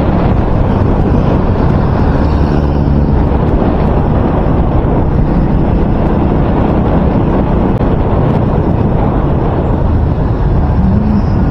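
Loud, steady wind buffeting on a microphone, a deep rumbling roar that persists even though the microphone is wrapped in electrical tape.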